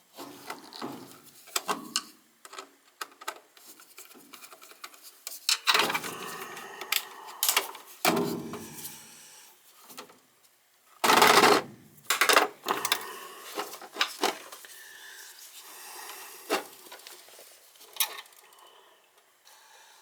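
Handling noises from work on a furnace's low-voltage thermostat wiring: scattered clicks, taps and rubbing, with one louder scraping rush about halfway through.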